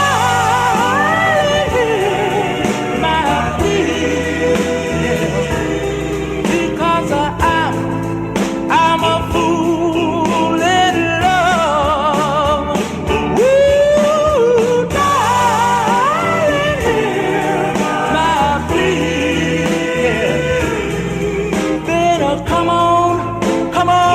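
Doo-wop ballad: a lead vocalist sings with vibrato over close group vocal harmony and a slow band accompaniment.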